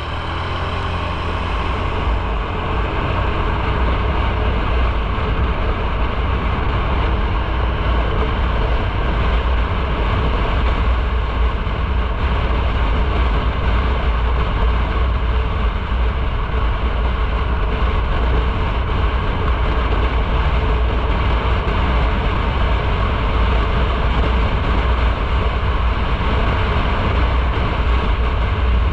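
Motorcycle on the move: engine running under a heavy rush of wind on the microphone. It builds up over the first couple of seconds as the bike gets going, then holds steady.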